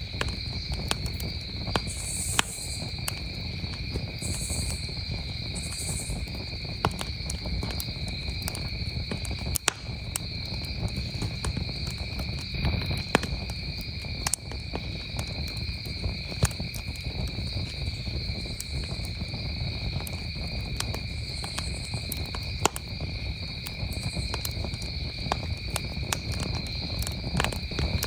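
A wood campfire crackling, with sharp pops at irregular intervals, while crickets chirp in a steady, unbroken trill behind it.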